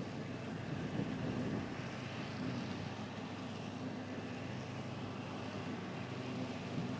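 Engine of vintage farm machinery running steadily, a low even hum.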